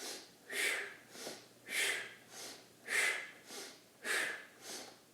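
A man's rhythmic breathing, quick in-and-out breaths about two a second, every other one stronger, in time with a rocking exercise.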